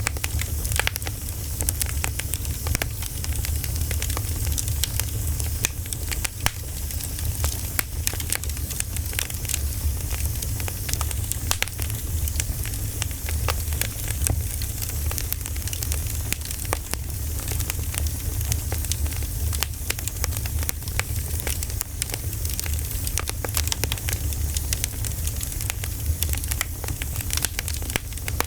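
Campfire crackling and popping in quick, irregular snaps over a steady low rumble.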